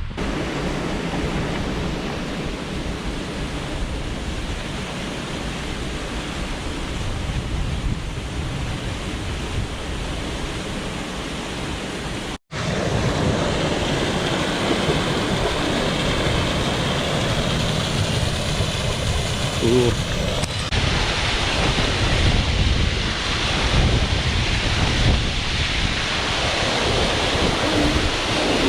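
Wind buffeting the microphone over a steady rush of water from the waterfall and ocean surf. After an abrupt cut about halfway through, the rushing water is louder and brighter.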